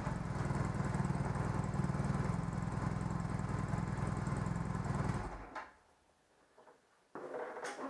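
Motorcycle engine idling steadily, then stopping abruptly about five seconds in. A short clatter follows near the end.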